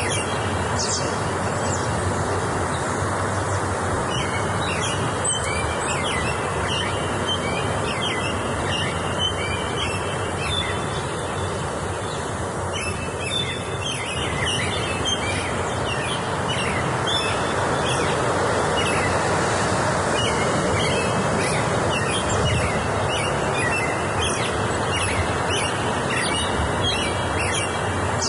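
Several small songbirds chirping and twittering in short repeated phrases over a steady rushing background noise.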